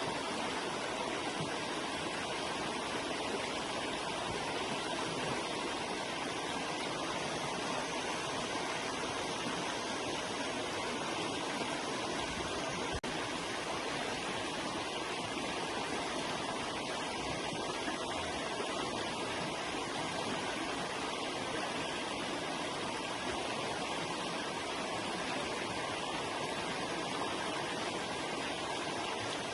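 River water flowing, a steady rushing sound with no change in strength.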